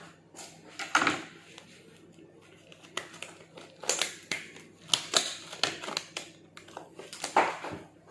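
Kitchen handling noises: irregular sharp clicks and taps mixed with plastic crinkling, a few times over several seconds.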